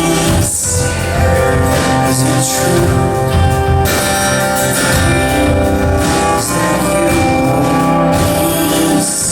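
Live band playing an instrumental passage of a contemporary Christian song, with sustained chords over a steady bass line.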